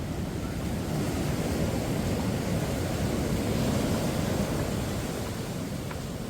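Rough surf washing onto the beach, a steady rushing noise that swells around the middle, with wind on the microphone.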